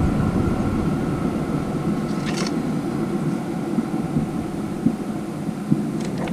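Vevor 5 kW diesel air heater winding down after being switched off: its combustion blower fan runs on in the shutdown cool-down, a steady whir that slowly gets quieter, with a couple of light clicks.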